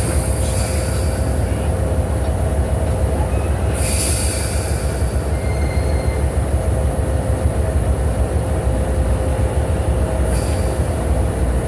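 Oil Creek and Titusville Railroad passenger train rolling along the track with a steady low rumble. Brief high wheel squeals and hisses come about four seconds in and again near the end.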